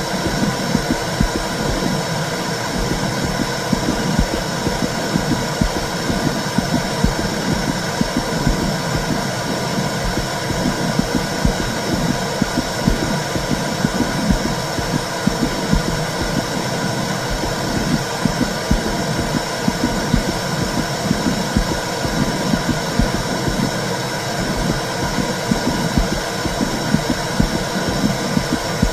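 Womb sound for soothing a baby: a steady low whooshing rumble with fast, uneven throbbing underneath.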